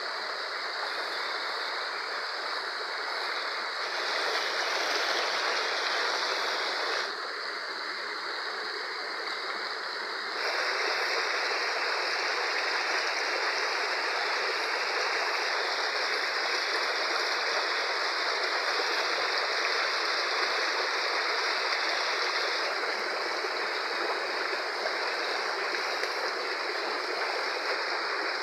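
Rushing water of a fast-flowing river: a steady, dense rush with no distinct events. The level jumps abruptly a few times in the first ten seconds, then holds steady.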